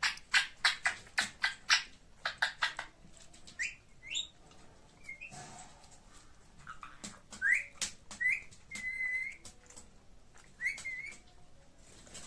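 Indian ringneck parakeet calling: a rapid run of short, sharp chirps, about five a second, for the first two to three seconds, then a few separate rising whistles and one held whistle.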